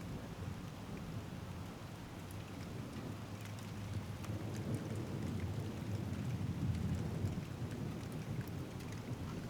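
Steady rain with scattered drops ticking close by, and a low rumble of thunder that builds from about three seconds in, peaks a few seconds later and then eases off.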